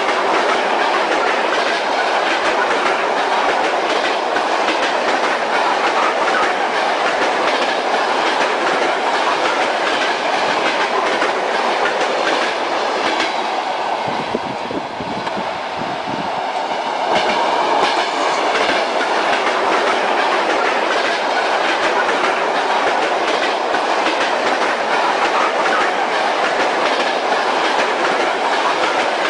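Train running on the rails, its wheels clacking over rail joints against a steady running noise. About halfway through the sound briefly dulls and drops a little, then returns.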